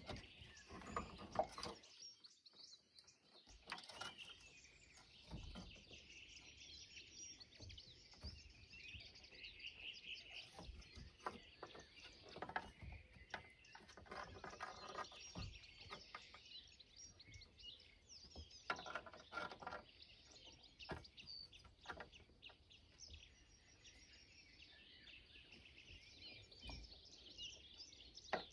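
Faint birdsong: small birds chirping and twittering, with scattered soft knocks and rustles.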